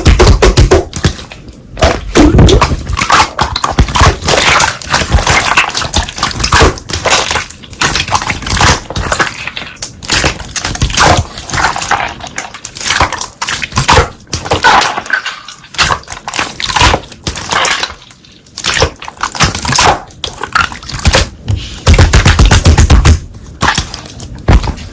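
Slime being squeezed and pressed by hand, with a dense, irregular run of crackling clicks and pops.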